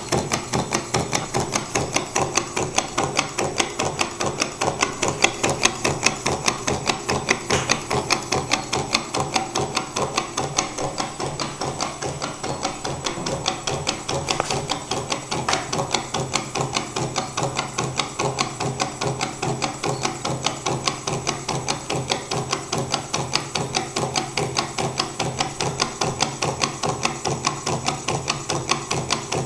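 Gamma-type Stirling engine with two power pistons in a V and a displacer piston running steadily, its moving parts making a fast, even clicking clatter that does not change in speed.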